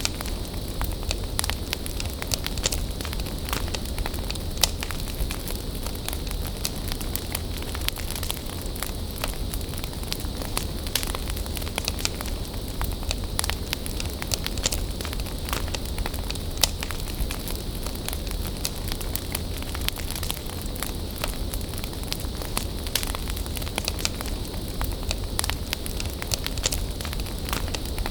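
Bonfire burning: a steady hiss with frequent sharp crackles and pops.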